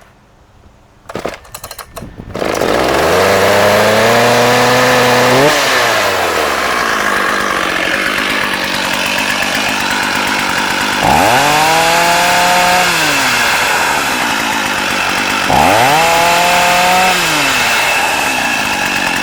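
Echo CS-8000 80cc two-stroke chainsaw being pull-started: a few sharp pulls of the starter cord, then the engine catches about two seconds in. It is revved up three times, each time dropping back to idle.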